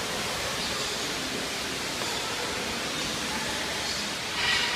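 Steady rushing of a waterfall, with a brief louder swell near the end.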